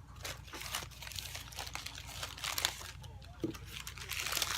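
Wax paper crinkling and crackling as it is peeled slowly off a diamond painting, the paper sticking to the resin drills as it lifts, in an irregular run of rustles and small crackles.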